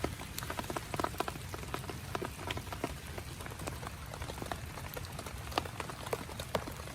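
Rain pattering on a tent: heavy drops tick sharply and irregularly over a steady hiss of rainfall.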